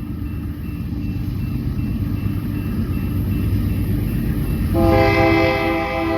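Diesel freight locomotive rumbling and growing louder. Near the end it sounds its air horn in one long chord.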